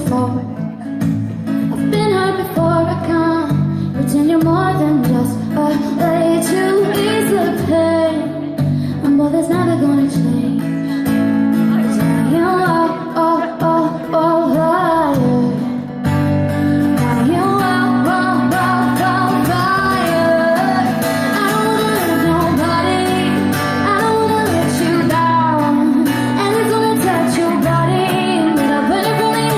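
A woman singing a pop-folk song live to acoustic guitar accompaniment, the melody running on with a brief break about halfway through.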